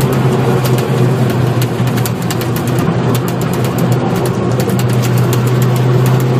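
Nissan Silvia S15 Spec R's turbocharged SR20DET four-cylinder running at steady revs through a corner, a constant drone that neither rises nor falls.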